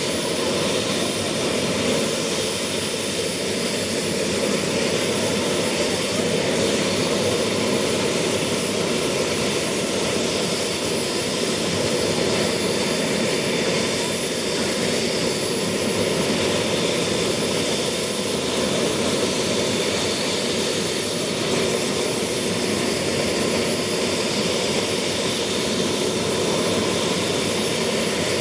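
Bell 222 helicopter's twin Rolls-Royce 250-C30G turboshaft engines running steadily: a constant high turbine whine over a dense rushing noise.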